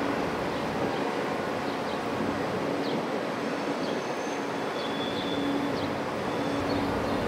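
Train running on the tracks: a steady rolling noise with a constant low hum through it.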